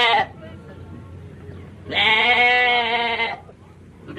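Sheep bleating: one long, wavering, steady-pitched bleat in the middle, with the tail of another at the start and the next beginning at the end.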